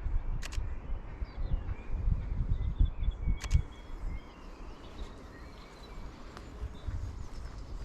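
Footsteps walking outdoors, with small birds chirping in the background and two sharp clicks, one near the start and one about halfway through. The footsteps fade about halfway through, leaving the birdsong.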